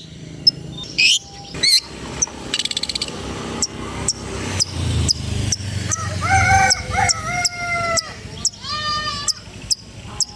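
Long-tailed shrike (cendet) singing a varied, mimicking song: sharp chirps, a fast trill, a few clear whistled notes and a quick rattling phrase near the end.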